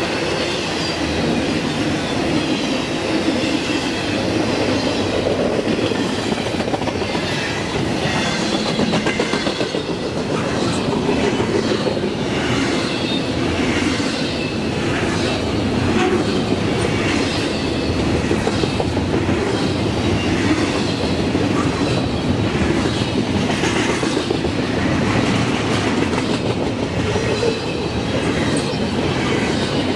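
Double-stack intermodal freight train rolling past: steel wheels on rail with a steady rumble and a rhythmic clickety-clack as the wheel sets cross the rail joints.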